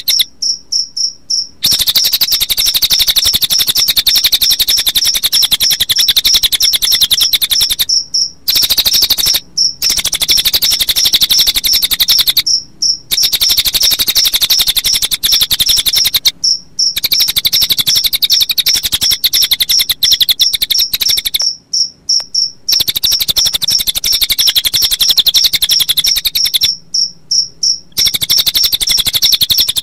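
Cililin bird song mixed with cricket chirping: a loud, fast, even run of high-pitched chirps that breaks off for a moment about six times.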